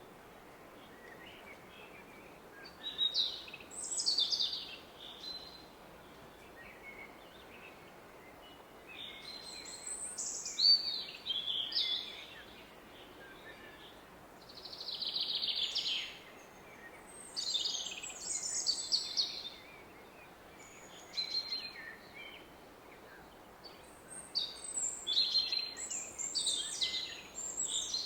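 Songbirds singing in short bursts of chirps and trills, a phrase every few seconds, over the steady faint rush of a distant river.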